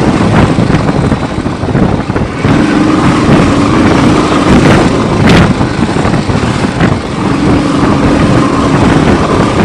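Motorcycle riding at road speed: a constant rush of wind noise over the microphone, with the engine's steady hum fading in and out.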